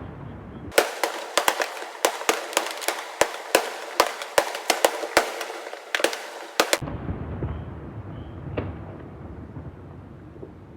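Aerial fireworks bursting over the sea about a kilometre away: a fast run of sharp bangs, about four a second, from about one second in to nearly seven seconds. Then a low rumble of echoing reports follows, with one more bang near the end.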